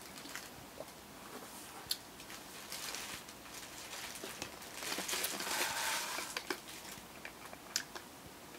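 A hamburger being bitten and chewed, with small wet mouth clicks throughout and a louder stretch of rustling, like its paper wrapper being handled, from about five to six and a half seconds in.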